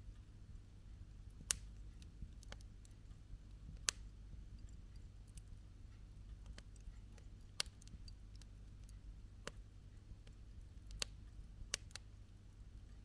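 Campfire burning wood, crackling in sharp irregular snaps and pops, with a handful of louder pops spread through, over a low steady rumble.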